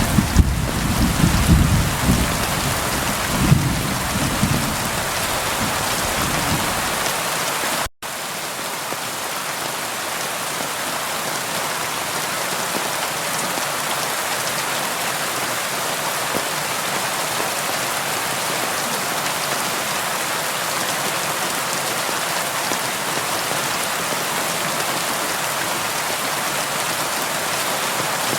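Steady rain, with a low rumble of thunder that dies away over the first several seconds. About eight seconds in the sound drops out for an instant, then the rain carries on evenly without thunder.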